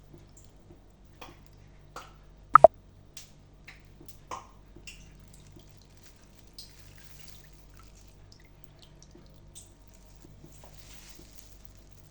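Kitchen food-preparation handling sounds: sparse small wet clicks and drips over a low steady hum, with one sharp, ringing clink about two and a half seconds in and a smaller knock about a second and a half later.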